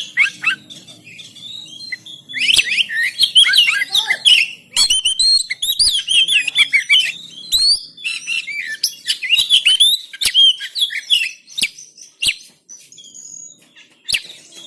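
Oriental magpie-robin (kacer) singing a fast, varied song of chirps, whistles and rising and falling notes. It comes in several loud bursts separated by short pauses, with a few sharp clicks between phrases. It is a vigorous, agitated full song packed with mimicked phrases (isian).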